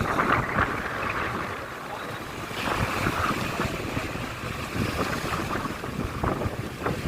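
Wind buffeting the microphone over the open sea, with the wash of waves.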